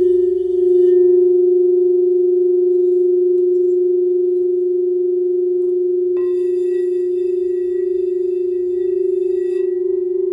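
Crystal singing bowls ringing: one bowl holds a steady, slightly wavering tone throughout. About six seconds in, a second bowl sounds with higher ringing tones that stop about three and a half seconds later.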